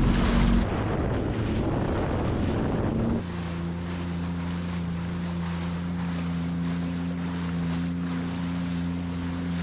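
Sea-Doo jet ski running at speed, with wind on the microphone and rushing water. About three seconds in the rushing noise drops and a steady, even engine hum carries on.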